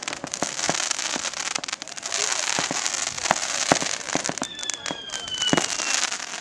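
Fireworks crackling: a dense hiss full of rapid sharp pops and cracks. Near the end a faint whistle slowly falls in pitch.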